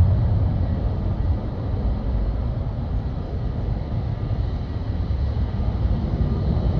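Jet airliner engines giving a steady low rumble, with a faint high steady whine on top.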